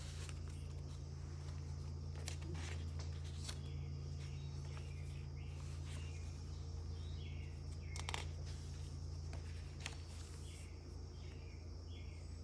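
Faint bird chirps over a steady low hum, with a few brief clicks of paper handling as journal pages are turned.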